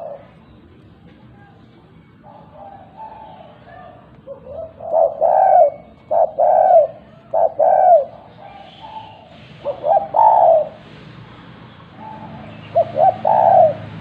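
Spotted dove cooing its 'kuk 2' call: phrases of several short, pitched coo notes, repeated with pauses of a second or two between them.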